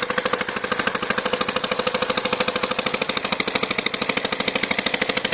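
Small engine running at a steady speed, with a rapid, even putter of firing strokes and a constant hum.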